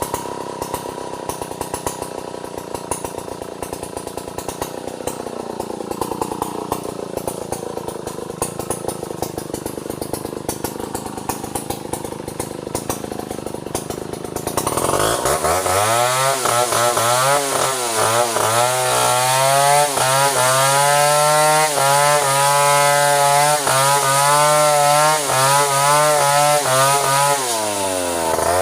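Two-stroke chainsaw ticking over at low revs, then opened up to full throttle about halfway through and running hard, cutting into a bintangor trunk. The revs dip briefly near the end.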